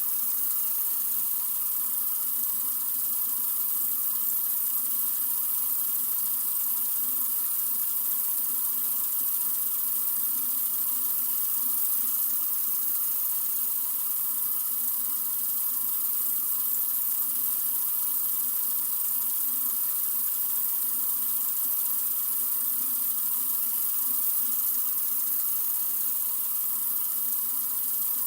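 Sink faucet running in a steady, unbroken stream: an even, hissing flow of water.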